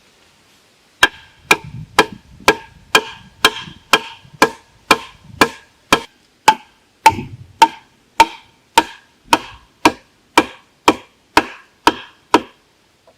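Steady chopping, about two dozen sharp strikes at roughly two a second, each with a brief ringing note, like a blade striking wood. It starts about a second in and stops shortly before the end.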